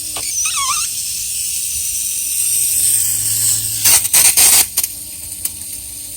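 Outside faucet running with a steady hiss of rushing water, a wavering squeal early on and a steady low hum. The hum comes from the hose bibb vacuum breaker screwed onto the spigot, and replacing the breaker cures it. A few loud bursts come about four seconds in.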